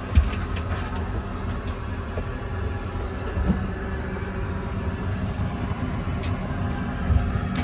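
Airbus A321 cabin noise: a steady low rumble with a faint hum and a few soft knocks.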